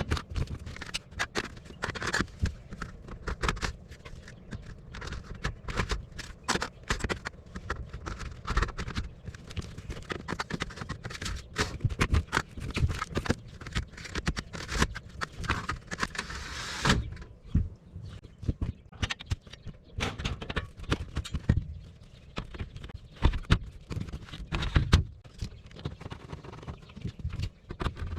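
Irregular knocks, taps and clatter from hand work on an air-conditioning package unit during cleaning and maintenance. A hissing noise joins in for a few seconds and cuts off suddenly about two-thirds of the way through.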